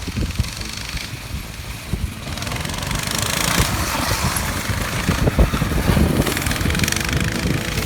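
Coleman BT200X mini bike's small single-cylinder four-stroke engine running under throttle while racing. A hiss builds up over it from about two seconds in.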